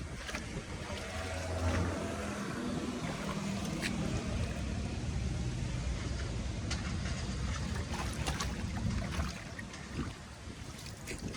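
Water flowing steadily, a low rushing noise with a few faint clicks or knocks through it.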